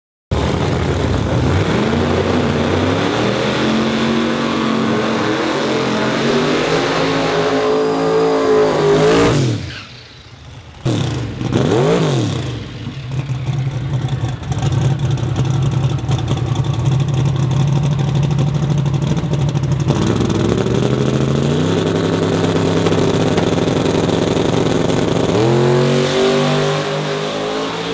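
Twin-turbo big-block V8 drag car engine revving and accelerating, its pitch climbing for about nine seconds and then dropping off sharply. A quick rise and fall in pitch follows, then the engine runs steadily, with revs climbing again near the end.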